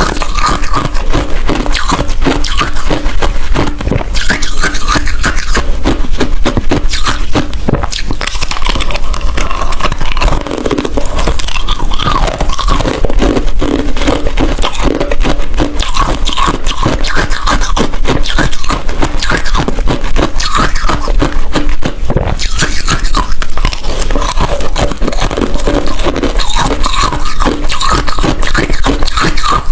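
Ice being bitten and chewed: loud, rapid crunching that keeps on without a break.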